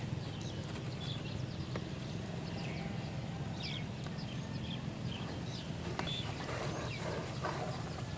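Small birds chirping: many short, high chirps in quick, irregular succession, over a steady low hum.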